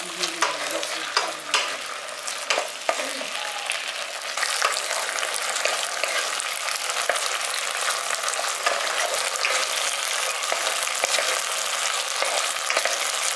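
Onion, capsicum and freshly added sauces frying in oil in a kadai while being stirred, a spatula knocking and scraping against the pan over the sizzle for the first few seconds. About four seconds in the sizzle grows louder and settles into a steady hiss.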